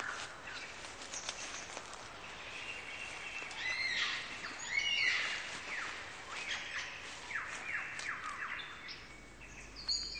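Forest birds calling and singing: varied whistled notes, with a run of quick downward-sweeping calls in the middle, over a steady background hiss.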